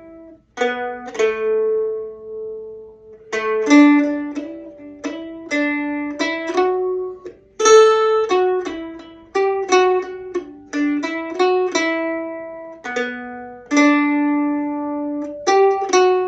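A solo plucked string instrument picking a Christmas carol melody note by note. Each note dies away after it is plucked, and a few are left to ring for a second or two.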